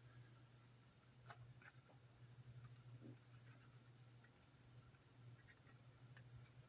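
Near silence: a faint steady low hum with a few light clicks scattered through.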